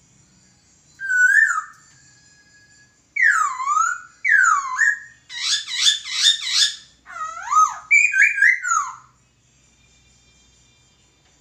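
Poksay (laughingthrush) singing a run of loud whistled phrases with sweeping downward and up-and-down slides, including a fast warbled stretch in the middle; the song begins about a second in and stops about nine seconds in.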